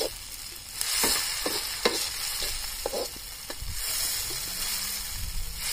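Chopped onion, green chilli, tomato and herbs sizzling in oil in a black wok, stirred with a perforated metal skimmer that scrapes and clinks against the pan several times.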